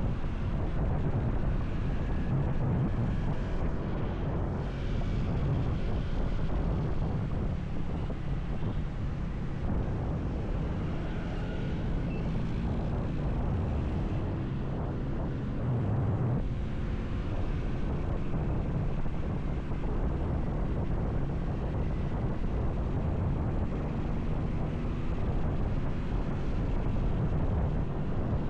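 Motorcycle running steadily on the road, with wind rushing over the action camera's microphone as a constant low rumble.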